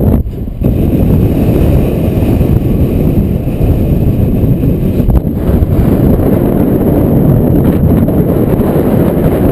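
Strong dust-storm wind blasting across the microphone: a loud, steady low rumble that eases briefly just after the start.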